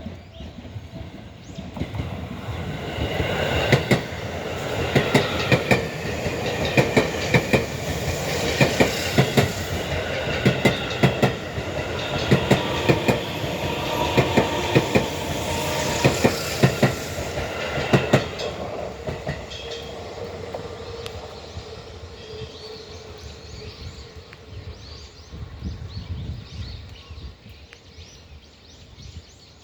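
Seibu 30000 series electric train passing, its wheels clattering over the rail joints in quick pairs. The sound builds up, stays loud for about fourteen seconds of clickety-clack, then fades away with a faint hum as the train moves off.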